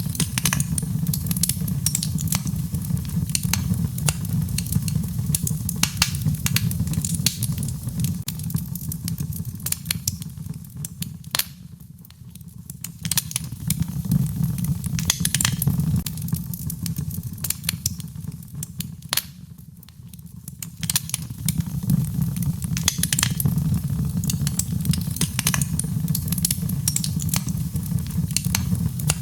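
Wood fire crackling in a fireplace: dense pops and snaps over a steady low rumble, easing off twice before picking up again.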